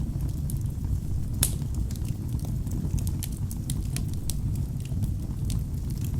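Wood fire burning in a fireplace: a steady low rumble of flames with frequent crackles and small pops from the logs, one sharper pop about a second and a half in.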